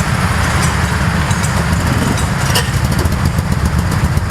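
Go-kart engine running steadily with a rapid low pulsing, over a haze of wind or tyre noise; a short click about two and a half seconds in.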